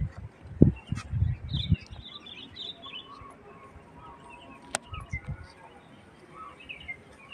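Small birds chirping and twittering in short, repeated calls, with a few low muffled thumps in the first two seconds and again about five seconds in, and a single sharp click just before that.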